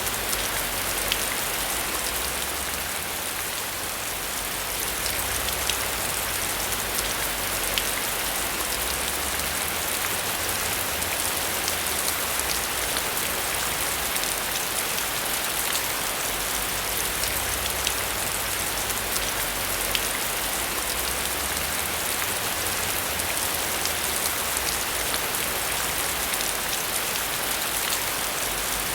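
Heavy rain falling steadily: a dense, even hiss with many small sharp drop ticks scattered through it.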